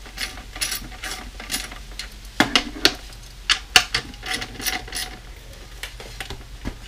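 Metal drum hardware being unscrewed and handled: a string of irregular small ticks and rattles, with a few sharper metal clacks about two and a half and four seconds in.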